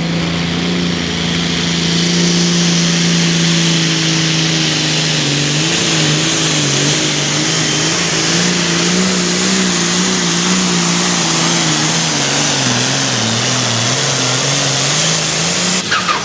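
A John Deere hot farm pulling tractor's diesel engine running flat out under load down the track. Its pitch holds steady at first, then wavers up and down as the load changes and sags briefly near the end before picking back up, with a high whine and hiss over the engine note.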